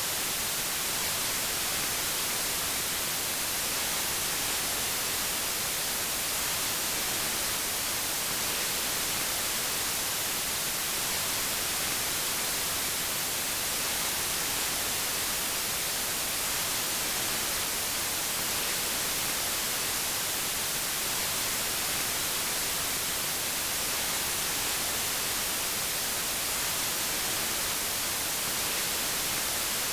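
Steady white noise, an even hiss that is brightest in the high frequencies and never changes.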